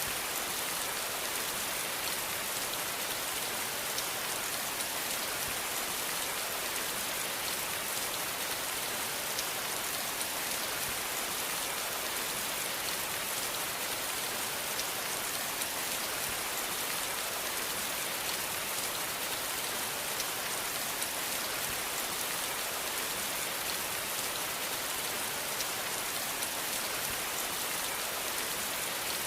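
Steady rain falling, a continuous even hiss with many small drop patters throughout.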